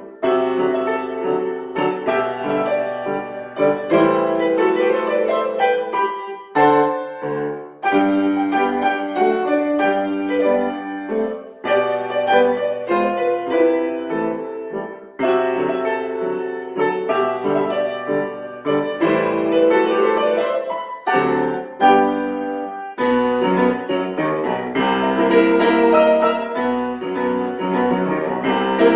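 Acoustic piano playing a piece in phrases, with brief pauses between them.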